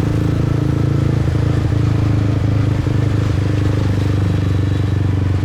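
Motorbike engine running steadily under way, heard from the rider's own seat, holding an even pitch throughout.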